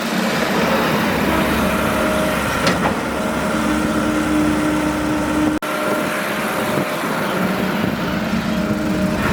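Excavator's diesel engine running steadily, with a hydraulic whine that rises in and out on top and a brief break about halfway through.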